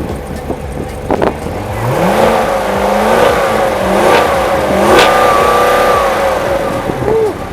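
A car engine revving: its pitch rises about two seconds in, then is held and blipped up and down a few times before it dies away near the end.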